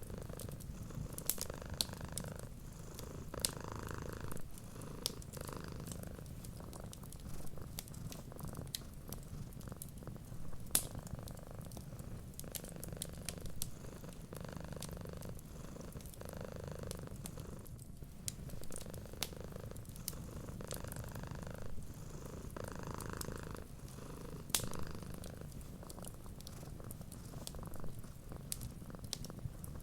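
Cat purring steadily, its rumble swelling and easing with each slow breath, with scattered sharp crackles and pops from a wood fire.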